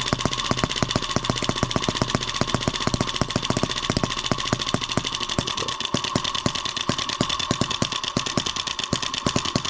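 A small M25 side-shaft model engine with a water hopper, running on its first start with a fast, even train of sharp firing pulses. It is a loud little engine that does not run great.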